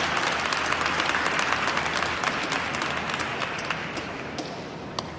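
Crowd applauding, with dense clapping that gradually dies down.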